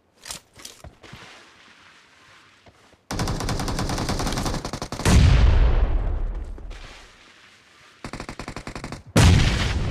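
Video-game automatic gunfire. A few faint single shots come in the first second, then rapid bursts of fire start about three seconds in. A louder burst about five seconds in dies away over a couple of seconds, and fire picks up again around eight seconds and loudly near the end.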